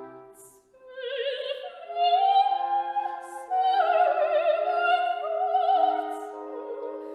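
Operatic singing with strong vibrato over orchestral accompaniment. The music dips briefly, then the voice enters about a second in and holds long notes.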